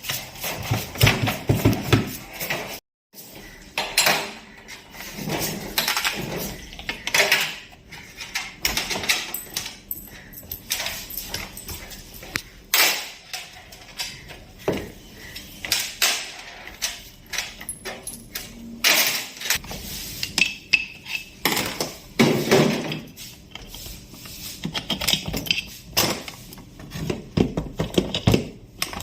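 Metal tools and parts of a tractor diesel injection pump clinking and knocking irregularly as the pump is worked on by hand.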